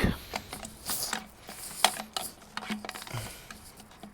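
Light irregular clicks and taps of a fuel pipe and filter being handled and pushed down into a hedge trimmer's fuel tank.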